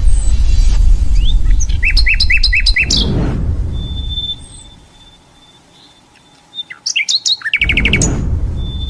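Crokcokan (yellow-vented bulbul) singing in two bursts of quick, bubbly chirping notes, the first about a second and a half in and the second near the end, with a low rumble under each burst.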